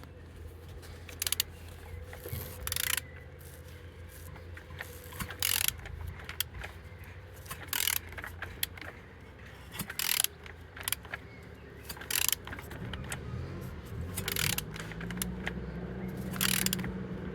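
BMW M54B25 straight-six engine being turned over by hand with a wrench on the crankshaft: irregular clicks and rasps of the tool and turning engine. It turns freely, with compression on all cylinders.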